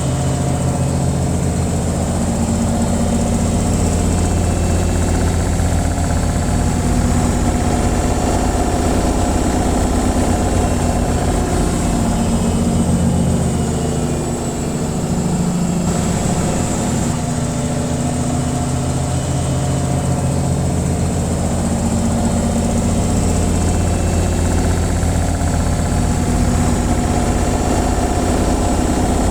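Washing machine on its spin cycle: a steady, loud, fluttering hum with vibration, dipping briefly about halfway through.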